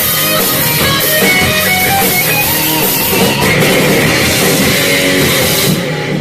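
Live heavy metal band playing: distorted electric guitars over a drum kit, loud and dense. The cymbals and highs drop away just before the end as the song finishes.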